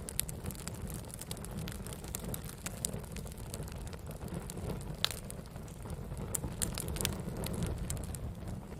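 Wood fire burning with a steady low rumble and irregular sharp crackles and pops, the loudest pop about five seconds in.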